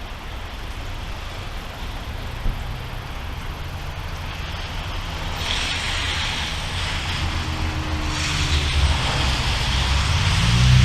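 Thunder rumbling low and building, growing louder near the end. A hiss comes in about halfway through, and there is a single small tick early on.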